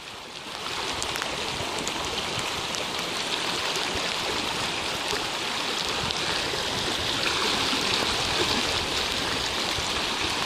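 Creek in flash flood rushing past in a steady, churning roar of water, running high and rising. It grows a little louder about half a second in.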